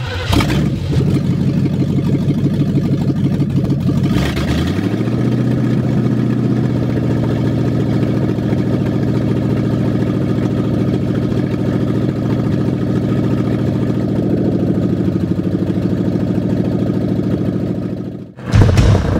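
Classic car's engine starting up and settling into a steady idle, heard from inside the cabin. The idle rises a little about four seconds in, then holds steady until it fades out near the end.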